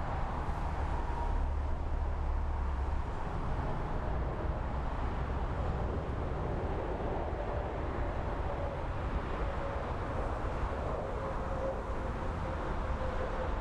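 Boeing 747-8 jet airliner landing, its engines giving a steady rush over a low rumble with a faint whine that slowly falls in pitch as it passes.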